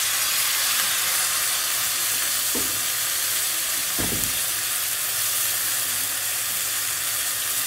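Pork belly cubes sizzling steadily in a hot pot with vinegar just added. Two soft knocks come about 2.5 and 4 seconds in.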